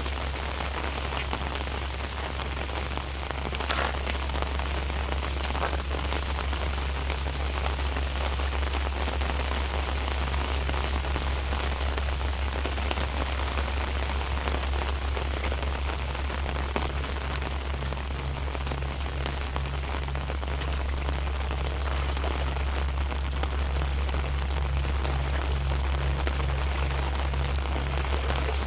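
Steady rain falling, an even patter with a few sharper drop ticks about four and six seconds in, over a steady low rumble.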